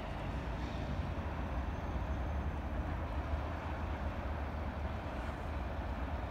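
Steady low rumble of a freight train of tank cars rolling along the track.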